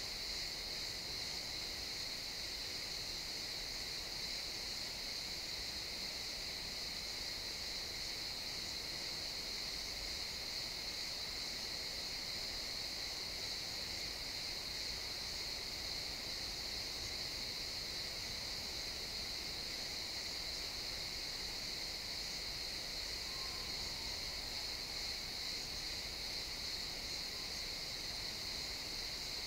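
A chorus of crickets chirping in a steady, high-pitched trill that holds without a break.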